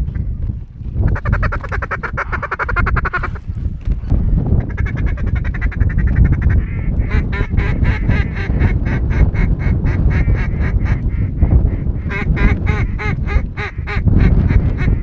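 Mallard quacking: a fast stuttering run, then long rhythmic strings of loud hen-style quacks at about four or five a second, over a steady low rumble.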